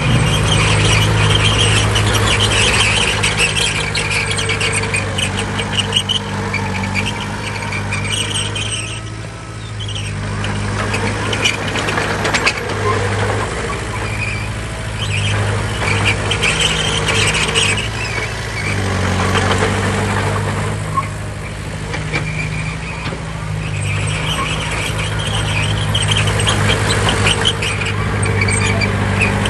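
Heavy diesel earthmoving machine engine running steadily, with a high-pitched squeal that comes and goes several times.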